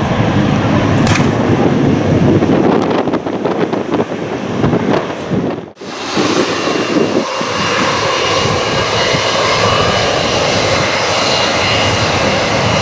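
Jet airliner engines producing a loud, dense rushing roar. About halfway through, the sound drops out for an instant and comes back steadier, with a faint high whine over the roar.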